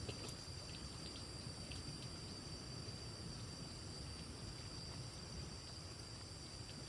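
Faint forest ambience with a low, steady rush of water, a constant high-pitched tone over it and a few small scattered clicks.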